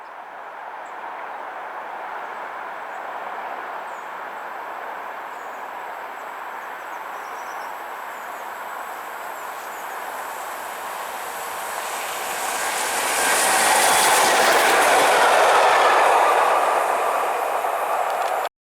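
A train running past on mainline track. The rail noise builds to its loudest about two-thirds of the way in, then cuts off suddenly.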